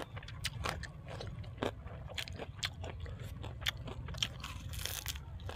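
Close-up chewing and crunching of a mouthful of food, many small sharp crunches in an irregular stream, with one louder crunch near the end.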